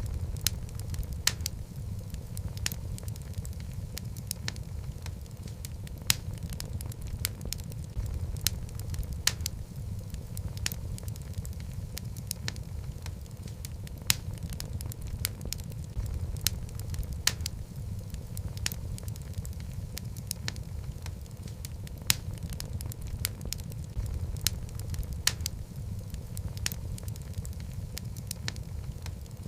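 Wood logs burning in a fireplace: a steady low rumble of flame with frequent irregular crackles and pops, a few of them sharp and loud.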